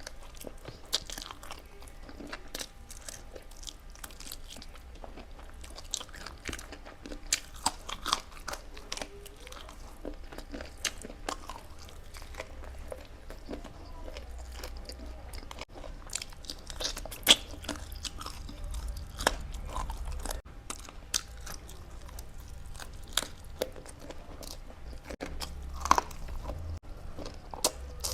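Close-miked mukbang eating: a person chewing and crunching food with irregular wet clicks and snaps, a few louder crunches standing out.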